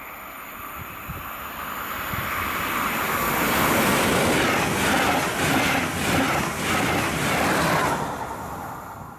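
Train passing at speed on the main line: a rising rush of wheels on rail that is loudest for about four seconds, with a fast, even beat of wheel clatter, then falls away quickly near the end.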